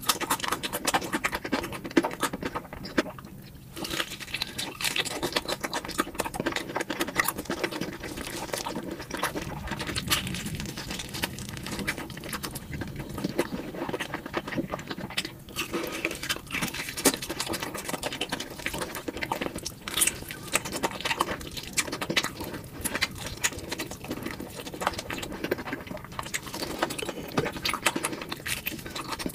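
Close-miked chewing and crunching of crispy fried chicken, with a bite of a burger near the end. The crunching is a dense, continuous run of small crackles.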